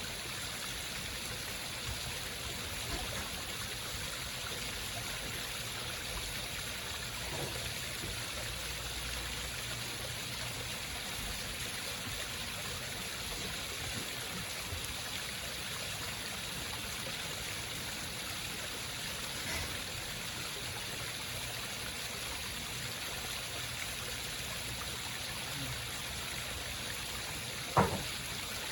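Small home waterfall, its water trickling and splashing steadily, with a single sharp knock near the end.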